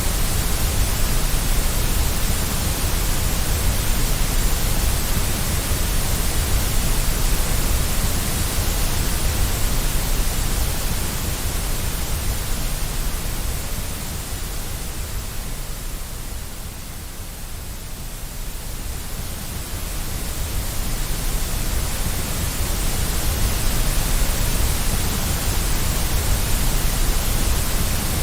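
Steady white noise for soothing a baby: an even, full-range hiss with a strong low rumble. It fades somewhat for a few seconds in the middle, thinning most in the middle of the range, then swells back to full.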